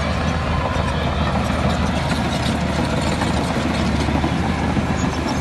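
Heavy earthmoving machine's diesel engine running steadily at an even level.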